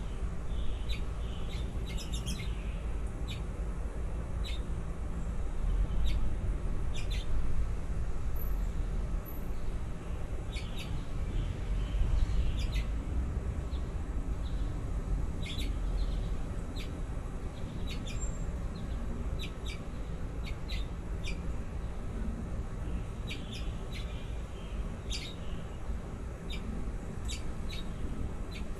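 Baby birds cheeping: short, high chirps, singly and in quick little runs, scattered irregularly over a steady low rumble.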